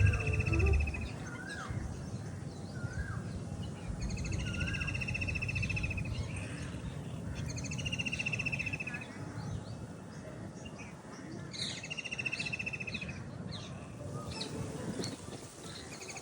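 Several birds calling: a trilled call about two seconds long repeats roughly every four seconds, with higher chirps and short rising notes between, over a steady low rumble of background noise.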